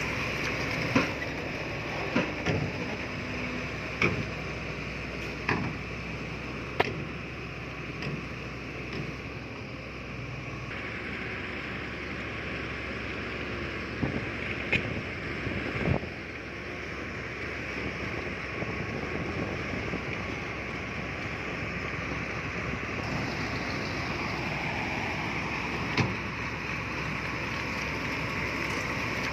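Heavy earthmoving machinery's diesel engine running steadily, with sharp metallic clanks and knocks now and then: a cluster in the first few seconds, a few more around the middle and one near the end.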